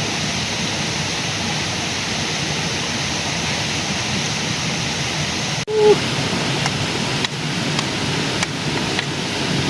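Steady rushing of river water. A little under six seconds in there is a brief sudden dropout, then a short low pitched sound that is the loudest moment.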